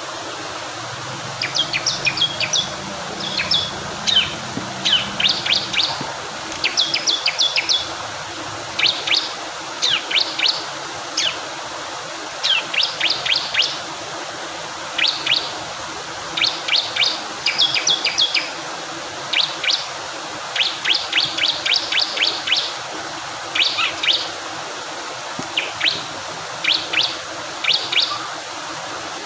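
Bar-winged prinia (ciblek kristal) singing: repeated quick bursts of short, sharp high chips, a cluster every second or two, over the steady rush of flowing water.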